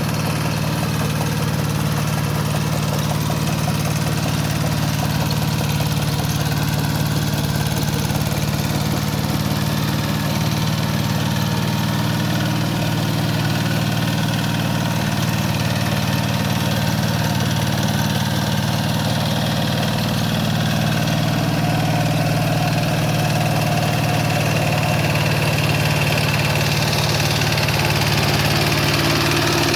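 Kubota K700 power tiller's single-cylinder diesel engine running steadily, getting slightly louder near the end.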